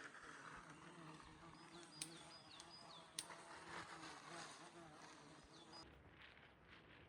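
A flying insect buzzing in a steady low drone, fading off near the end. A bird's short, high, falling notes repeat in the background, and there are two sharp clicks about two and three seconds in.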